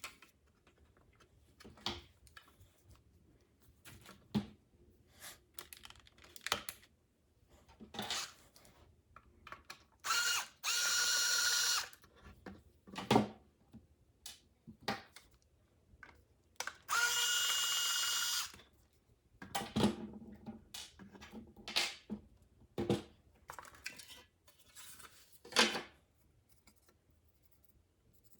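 A small electric motor whirring in two short bursts of about a second and a half each, with scattered clicks and knocks of parts and tools being handled between them.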